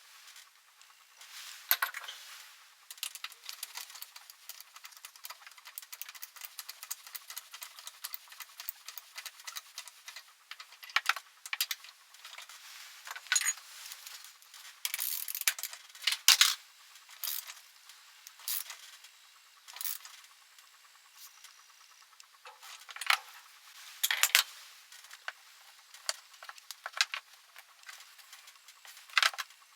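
Irregular clicking, tapping and light rattling of small hard objects being handled, with a handful of louder clacks scattered through.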